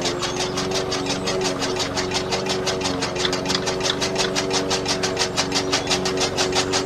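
Small electric motor of a DIY model machine running steadily, with a rapid even ticking about seven times a second.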